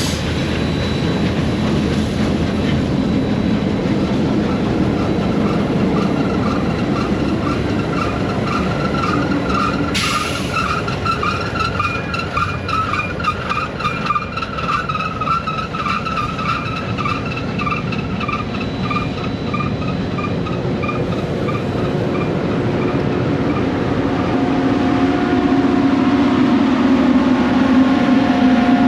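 A passing freight-style train car rumbling along the rails with a rapid, repeated high chirping from its wheels, the sign of a sticking brake dragging on a box car. The chirping fades out past the middle, and a steady low hum grows louder near the end.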